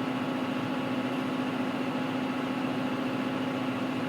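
John Deere 6930's six-cylinder diesel engine running steadily, heard inside the cab as an even drone with one strong constant hum.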